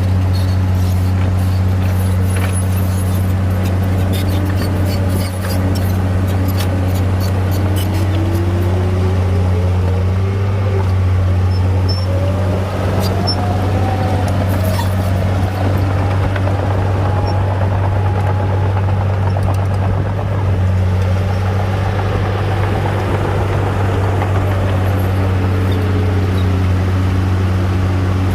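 Bulldozer's heavy diesel engine running steadily under load, a constant low drone with a fainter whine that slowly rises and falls in pitch through the middle.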